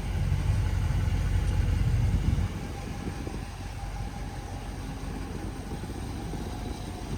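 Car engine rumbling nearby, loud for the first two and a half seconds, then dropping to a quieter, steady idle.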